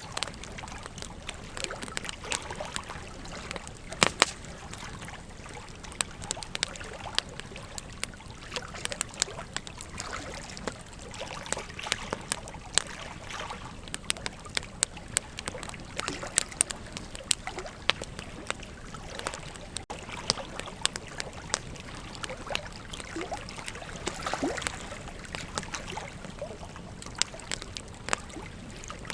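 Wood fire crackling with frequent sharp pops, the loudest pair about four seconds in, over the steady rush of flowing river water.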